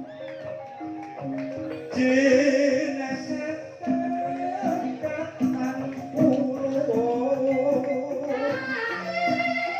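Banyumasan gamelan ensemble playing in the gending ebeg style: stepped, held metallophone notes, joined about two seconds in by a wavering sung vocal line, with a light, regular high percussion ticking over it later.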